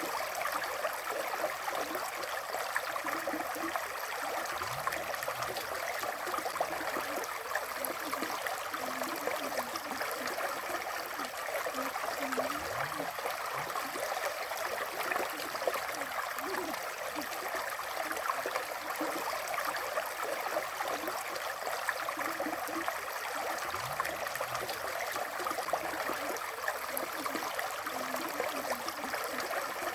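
River water flowing steadily: an even, unbroken rush.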